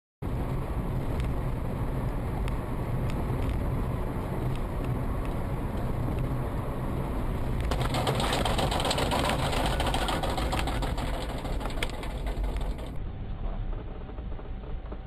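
Car-cabin sound recorded by a dash cam while driving: steady engine and road noise with faint, evenly spaced ticking. A louder rushing noise swells from about eight to ten seconds in.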